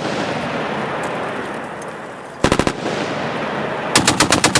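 Machine gun firing short bursts at about ten rounds a second: a burst of about five rounds a little past two seconds in, then a longer burst starting near the end. Reverberation fills the gaps between the bursts.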